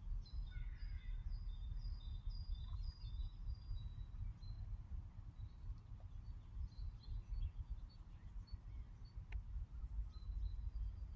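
Small birds chirping and singing in short high notes, busiest in the first few seconds and again near the end, over a constant low rumble.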